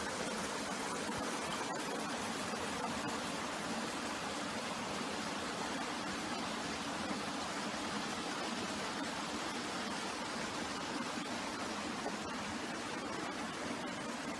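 Mountain stream water rushing in a steady, even hiss.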